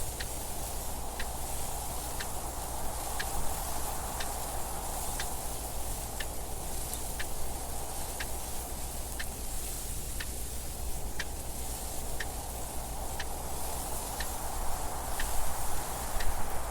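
Clock ticking about once a second, sharp even ticks over a steady rushing wind noise.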